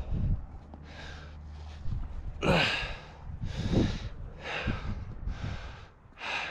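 A climber breathing hard and steadily while climbing, about one breath a second, with the sharpest, loudest intake about two and a half seconds in.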